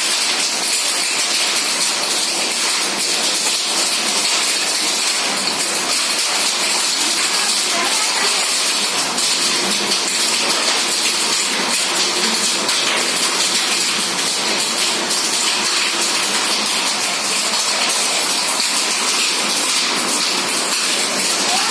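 Heavy rain with hail falling, a steady dense hiss peppered with small ticks of drops and hailstones striking.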